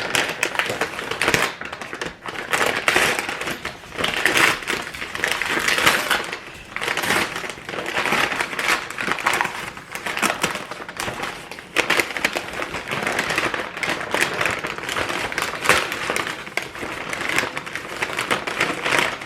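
A takeout food bag being handled and dug through, its paper or plastic rustling and crinkling in uneven bursts as the order is unpacked.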